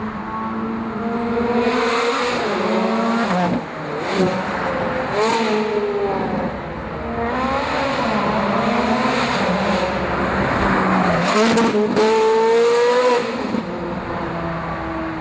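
Ferrari F430 Scuderia's V8 engine under hard acceleration, running through Fab Speed headers and 200-cell high-flow cats. The engine note climbs and then drops several times as it pulls and shifts, with short easings in between.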